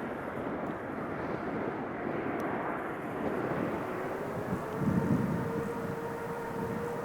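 Boeing 777's GE90 turbofan jet engines, a steady roar. From about four and a half seconds in, a rising whine sets in as the engine spools up, with a brief louder low rumble near five seconds.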